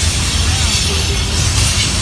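Freight train cars rolling past close by: a steady low rumble of steel wheels on rail with a hiss of wheel and track noise and faint thin high squeals.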